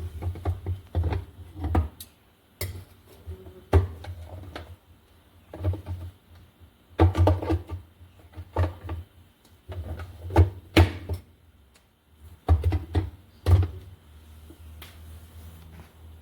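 Black+Decker 12-cup drip coffee maker brewing: irregular bursts of gurgling and sputtering a second or two apart over a low hum, as the heated water is pushed up to drip through the filter basket. The bursts stop near the end, leaving the steady hum.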